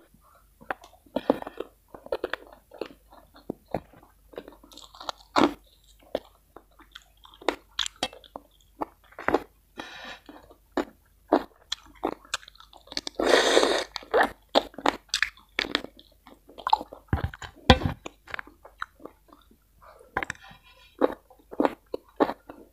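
Close-up mouth sounds of a person eating spicy chicken and rice: irregular wet chewing, lip smacks and small crunches, with one louder noisy sound lasting about a second near the middle.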